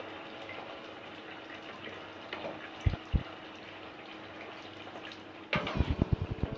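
Hot oil sizzling steadily as small semolina puris deep-fry. Two short knocks come near the middle. About five and a half seconds in, a sudden louder burst of sizzling and crackling with rapid knocks follows, like puris being added to the oil or stirred in it.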